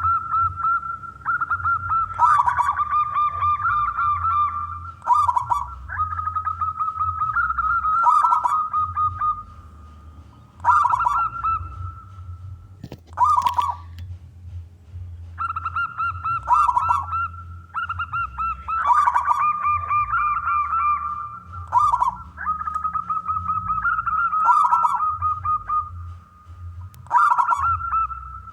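Male zebra dove (perkutut) singing: phrase after phrase of quick, stuttering coos, with short pauses between them and a longer break a little before the middle. A low steady hum runs underneath.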